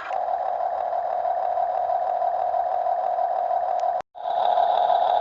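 Small electric motors of a Huina 1:14 RC excavator running with a steady whine. The sound cuts out abruptly a little over four seconds in, then comes back louder and higher-edged.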